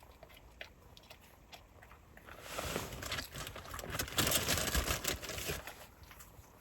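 A few faint clicks, then about two and a half seconds in a dense run of crinkly rustling and rapid small clicks lasting around three seconds before it dies away.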